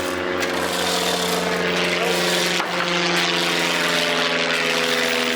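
A steady machine drone: several held tones over a hiss, some of them shifting in pitch about halfway through.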